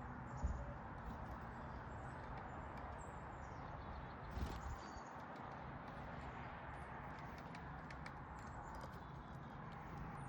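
Steady outdoor background hiss with a few faint, brief chirps from small backyard birds at a feeder, and two dull thumps, about half a second in and about four and a half seconds in.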